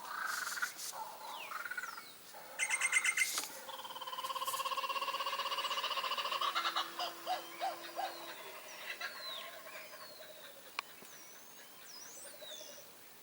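Several wild birds calling: a burst of rapid chattering notes about three seconds in, then a long harsh buzzing call, followed by scattered short notes and thin whistled glides that fade out near the end.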